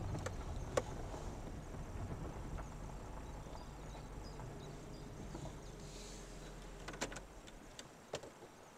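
Car engine idling with a steady low hum and a few sharp clicks, then the engine stops about seven seconds in.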